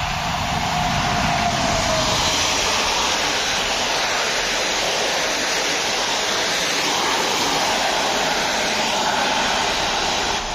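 Passenger train hauled by an electric locomotive passing at speed. The tail of its horn falls in pitch and fades out in the first two seconds, then the coaches go by with a steady rushing noise of wheels on rails and moving air.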